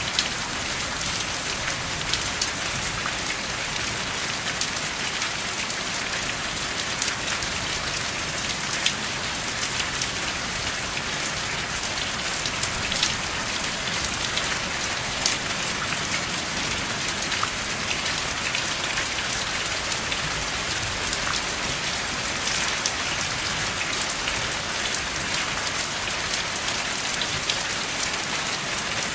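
Steady rain: an even hiss of rainfall with many small, distinct drop hits, no thunder.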